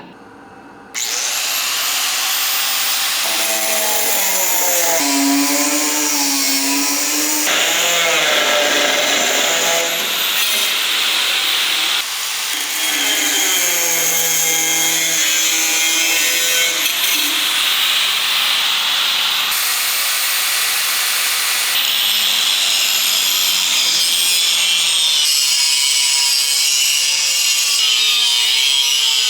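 Angle grinder running at high speed under load, its pitch wavering. The sound breaks abruptly several times.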